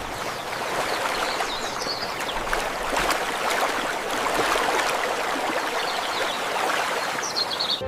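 Steady rush of flowing stream water, with a few short high chirps over it about two seconds in and near the end.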